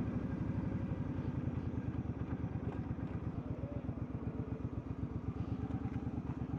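Suzuki Boulevard C50T motorcycle's V-twin engine running steadily, a rapid even beat of firing pulses with no revving.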